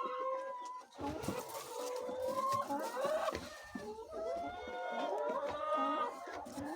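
A flock of chickens clucking and calling over one another, many birds at once, with a few soft knocks among them.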